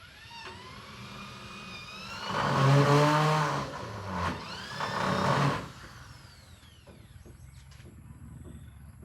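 A small electric power tool's motor whining up in pitch, working under load in two loud stretches, then winding down.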